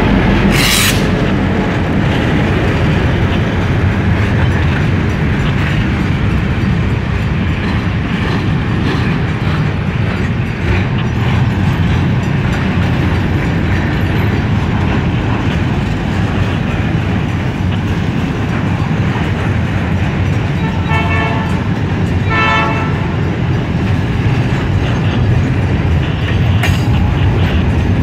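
Container freight train rolling past at close range: a steady low rumble of the loaded flat wagons' wheels on the rails, with a couple of brief rattles about three-quarters of the way through.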